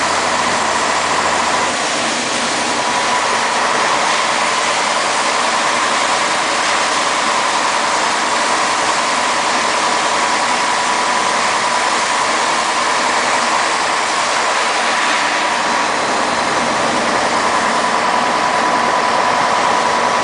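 Scania 110 Super truck's diesel engine running steadily, with a faint steady whine over the engine noise.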